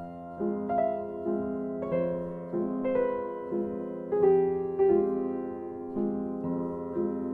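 Background piano music: a slow, gentle melody of sustained notes over chords, with a new note about every two-thirds of a second.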